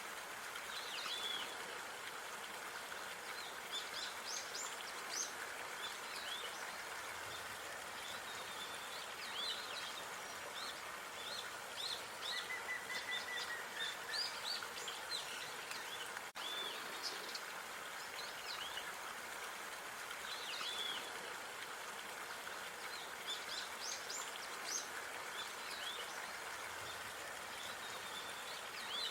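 Small birds chirping and calling on and off, short high notes scattered throughout, over a steady hiss of outdoor park ambience.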